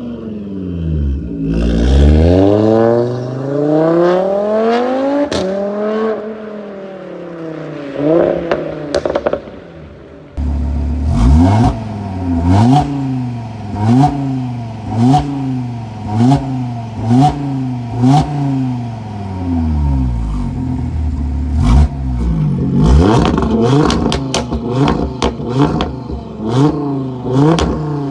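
Audi RS3 8V facelift's turbocharged 2.5-litre five-cylinder engine revved through a custom sport exhaust: a few long rises and falls in pitch, then a run of quick blips about one a second. Crackles and pops on the overrun grow denser near the end.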